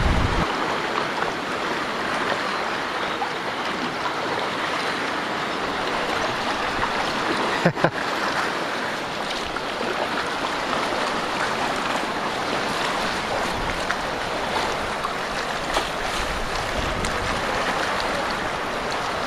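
Fast-flowing, broken water of a tidal race rushing and splashing around a sea kayak in a steady hiss. A brief thump about eight seconds in.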